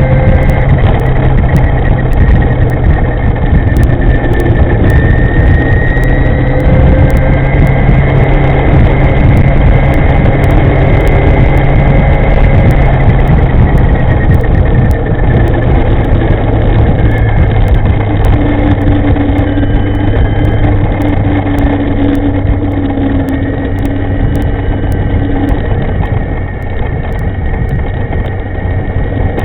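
Loud, steady wind and road noise from a Chunghwa e-moving electric scooter being ridden, with a low hum under it and a few faint whining tones that drift slowly in pitch.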